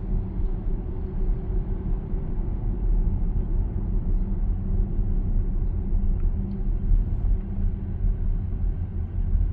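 Steady low road and tyre rumble inside the cabin of a Zeekr 7X electric car while driving, with no engine note.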